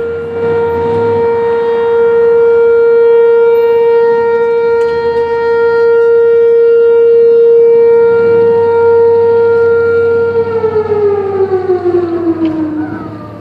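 Outdoor civil-defense warning siren sounding a tornado warning: one steady, loud wail held for about ten seconds, then winding down, falling in pitch and fading over the last few seconds.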